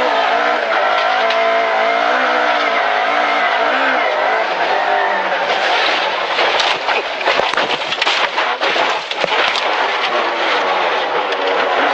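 Rally car engine running hard, its pitch rising and falling with throttle and gear changes. From about six seconds in, a rapid run of sharp cracks and clatter lasts some three seconds over the engine.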